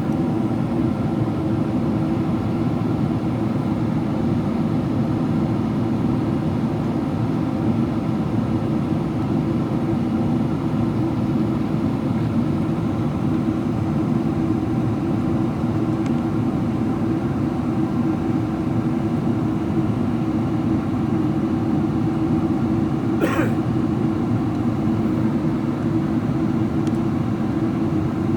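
Steady in-cabin drone of a Boeing 777-300ER descending: the hum of its GE90 engines and the rush of air over the fuselage. A single short click sounds near the end.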